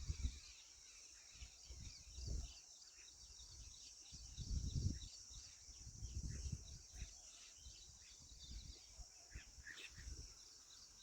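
Rural outdoor ambience: a steady high drone of insects, with many short bird chirps scattered through it. Several dull low thumps come and go, the loudest about halfway through.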